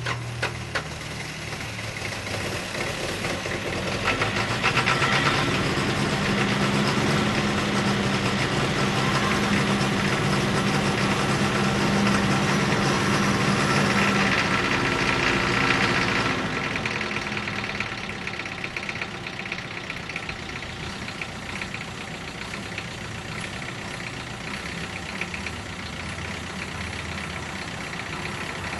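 Isuzu NPR box truck's diesel engine idling just after a cold start, with a steady diesel clatter. It runs louder from about four seconds in, then settles to a quieter idle after about sixteen seconds.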